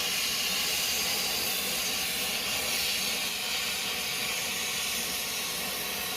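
A steady, even hiss, strongest in the high range.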